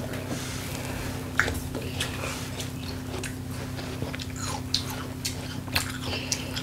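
Children biting and chewing juicy watermelon close to the microphone: wet chewing with irregular small crunches and mouth clicks, over a steady low hum.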